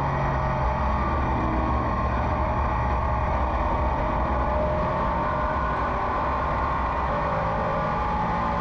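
Race car engine running hard at racing speed, its pitch slowly rising and falling with the throttle around the laps.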